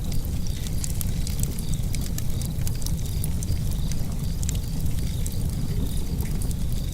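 Wood fire crackling in a fireplace: many irregular, sharp pops and snaps over a steady low rumble.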